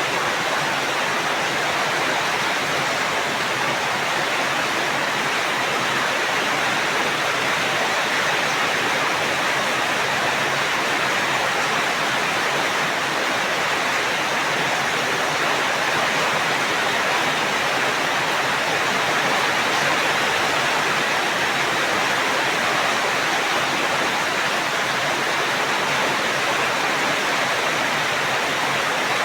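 Steady rain, a dense even hiss with no single drops or thunder standing out.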